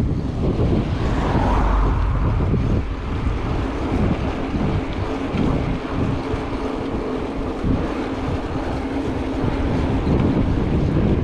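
Wind buffeting the microphone on a moving mountain bike: a steady low rumble with a rushing hiss above it.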